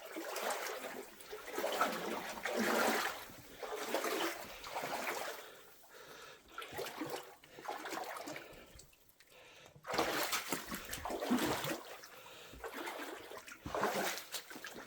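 Water splashing and sloshing in uneven surges as someone wades through a flooded mine tunnel, with a quieter pause in the middle.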